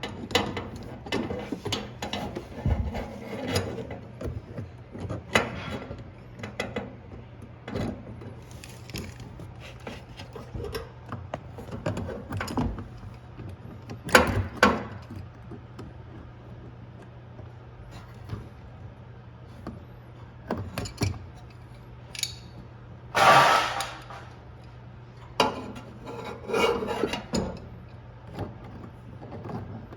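Hands and tools working on washing machine parts during reassembly: scattered clicks, knocks and rubbing. There is a louder scraping rush about 23 seconds in, over a steady low hum.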